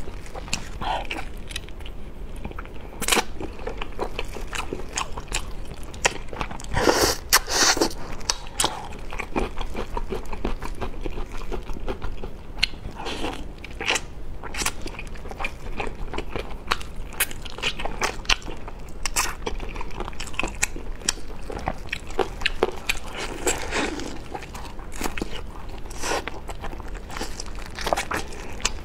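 Close-miked biting and chewing of glazed cola chicken wings: a steady run of short wet mouth clicks and smacks, with a louder, denser stretch of chewing about seven seconds in.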